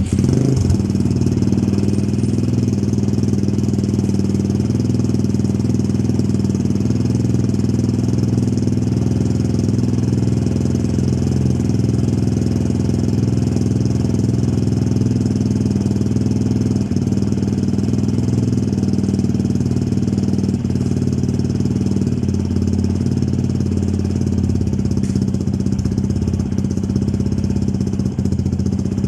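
Motorstar Easyride 150N's single-cylinder engine idling steadily through a bullet pipe with no silencer: a loud, even exhaust note.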